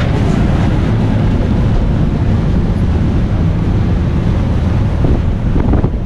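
Wind rushing over the microphone on the deck of a reef-tour boat under way, over a steady low drone from the boat. It gusts a few times near the end.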